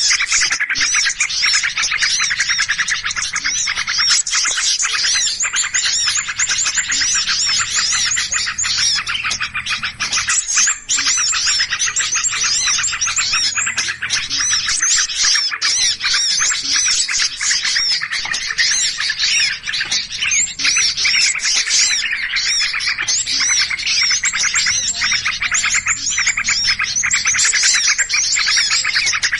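Bird-lure recording of many small birds chirping and calling at once in an agitated commotion. It is a dense, unbroken tangle of rapid high chirps and short whistled notes, played to draw other birds in.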